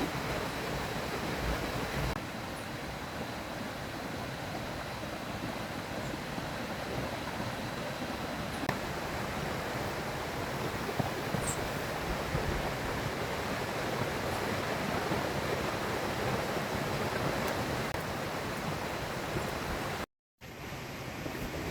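River water rushing steadily, an even wash of flowing-water noise; it cuts out for a moment near the end.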